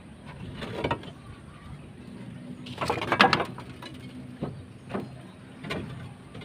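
Hand work on a roof: a series of knocks and clattering, the loudest cluster about three seconds in, with a steady low hum underneath.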